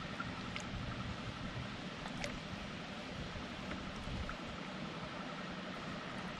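Water lapping and trickling around a kayak, with a faint steady high whine and a couple of light ticks.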